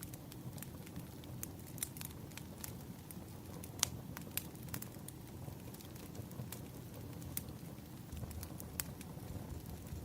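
Burning firewood crackling, with irregular sharp pops over a low steady rumble of the flames; the loudest pop comes about four seconds in.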